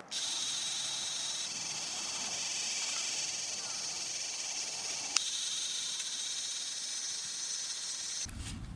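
Steady, high-pitched chorus of insects, with a single sharp click about five seconds in; near the end it gives way to low rumbling noise.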